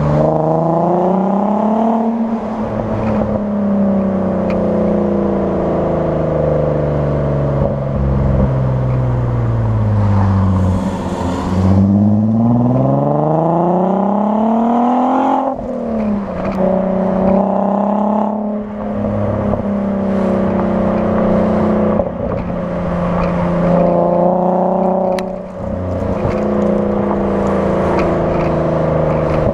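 Mk5 Volkswagen Golf R32's 3.2-litre VR6 engine running through a decatted Powerflow exhaust with a Forge induction kit, its note rising and falling with engine speed. The pitch falls slowly for several seconds and climbs again, drops sharply about halfway through, then holds fairly steady.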